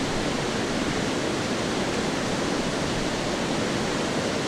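Waterfall rushing steadily, an even, unbroken noise.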